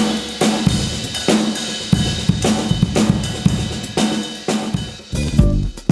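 A drum kit played in a steady beat, about one and a half hits a second, thinning out near the end.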